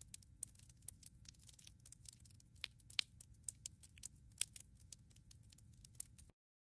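Firewood crackling in a fireplace: irregular sharp snaps and pops over a soft low rumble. It cuts off suddenly about six seconds in.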